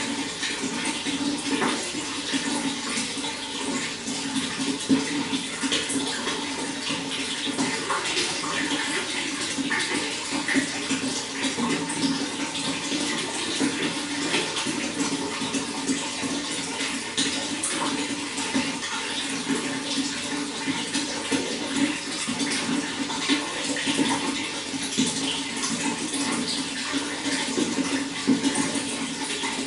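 Running water flowing steadily, a constant rushing wash with many small splashes and droplets throughout.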